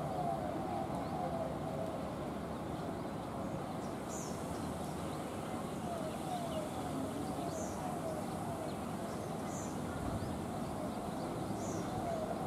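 Outdoor ambience of birds calling. One bird repeats quick runs of short falling notes, and thin high chirps come every second or two, over a steady low background rumble.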